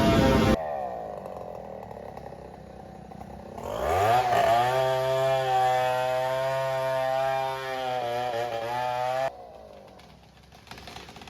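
An engine revs up about four seconds in and holds a steady pitch for about five seconds, then cuts off abruptly. Just after the start a louder sound stops suddenly.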